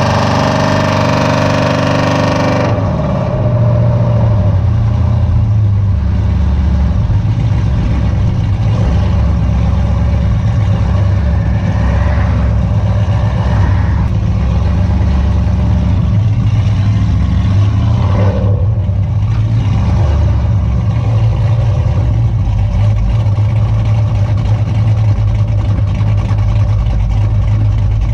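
Cammed 6.0 V8 of a Chevy Silverado SS running loud through straight pipes and long-tube headers with no muffler, a steady low engine note with a couple of brief rises in pitch partway through.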